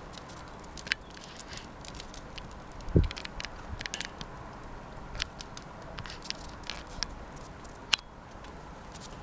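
Wood fire crackling in a washing-machine-drum fire pit: irregular sharp pops and snaps, with a dull thump about three seconds in and a louder pop near the end.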